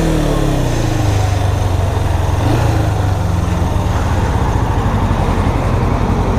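Motorcycle engine settling from a brief rev back to idle in the first second, then idling steadily.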